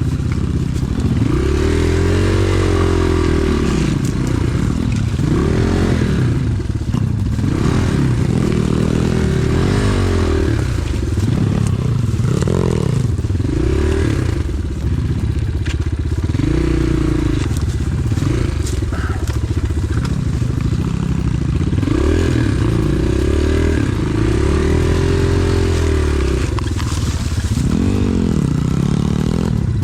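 Pit bike engine being ridden, its revs rising and falling every second or two as the throttle is blipped and eased.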